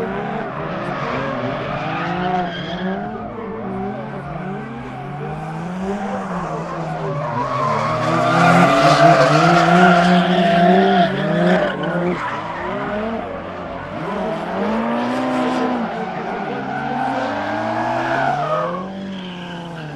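Two drift cars on a tandem run, their engines revving up and down hard with tyres squealing and skidding. The cars are loudest about 8 to 11 seconds in.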